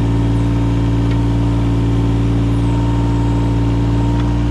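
Yanmar 017 mini excavator's diesel engine running steadily at a constant speed, with no strikes or load changes.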